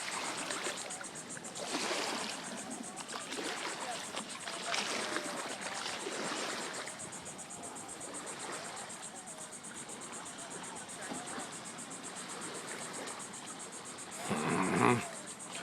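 Indistinct voices of people some way off over a steady wash of water noise, with one louder voice briefly near the end.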